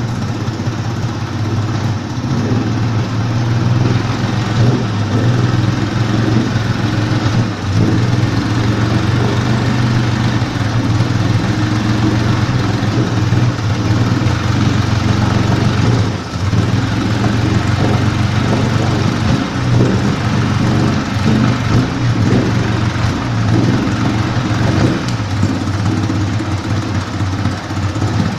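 Mercury outboard motor running steadily at an even speed, with a brief dip in level about 16 seconds in.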